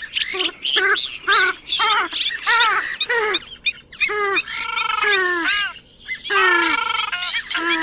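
Purple swamphen calling: a rapid series of loud, nasal, downward-sliding calls, about two to three a second, giving way in the second half to a few longer, drawn-out calls with a short pause between them.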